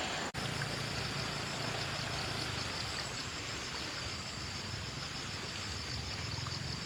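A motor running steadily with a low hum, under a thin, steady, high-pitched insect buzz.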